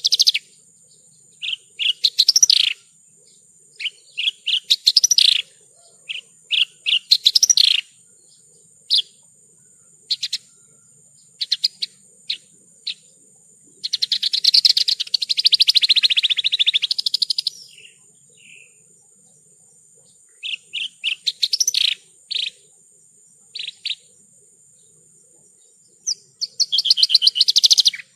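Javan bush lark (branjangan) singing: bursts of sharp high chirps and short trills separated by pauses, with a longer, dense trill of about three and a half seconds around the middle.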